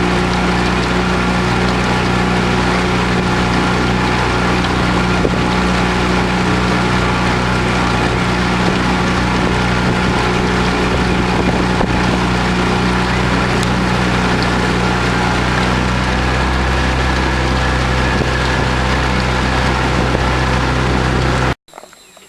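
Outboard motor running at a steady speed, pushing a small boat along the river; the sound cuts off suddenly near the end.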